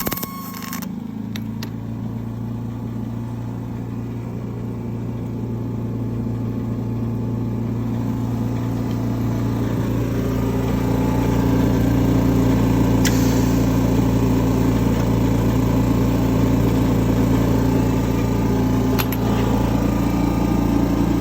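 Denyo GAW180SS engine-driven welder's petrol engine running steadily, growing louder over the first dozen seconds and then holding at an even pitch, with a few faint clicks.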